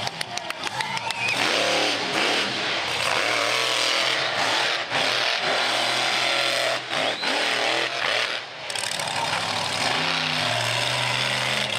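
Monster truck engine running loud and revving up and down, with a quick run of crackles in the first second.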